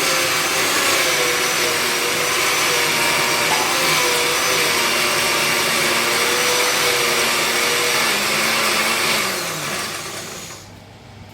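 Electric mixer grinder running steadily with a motor whine, grinding the pulimunchi masala into a paste. About nine seconds in it is switched off, and the whine falls in pitch as the motor spins down.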